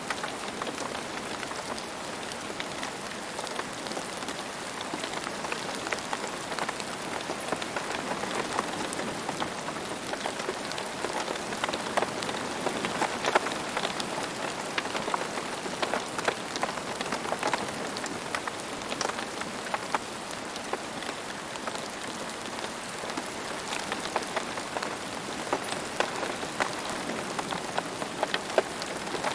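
Steady rain falling on the ground, a continuous patter with many distinct drop hits standing out.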